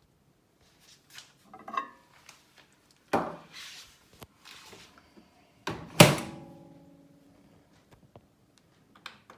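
Handling of a Miele M 8260-2 built-in microwave oven: light knocks and a brief clatter, then a hard thunk about six seconds in with a short metallic ring, typical of the oven door being shut.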